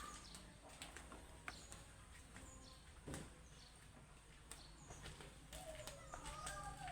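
Near silence with faint bird chirps, short high falling notes, and scattered small clicks; a longer wavering call comes in near the end.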